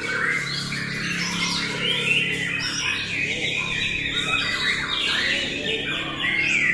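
Several white-rumped shamas (murai batu) singing at once in contest, a dense run of overlapping, quickly changing whistled phrases.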